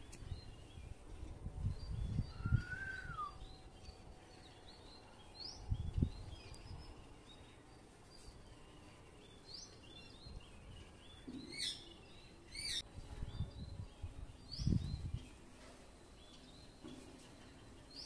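Birds chirping throughout, with one whistle that rises and falls about two and a half seconds in and two sharp calls close together about twelve seconds in. Low thuds come now and then underneath.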